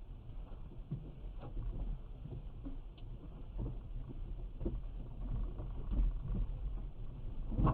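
Low rumble with irregular soft knocks and clicks, as in road noise heard inside a moving car.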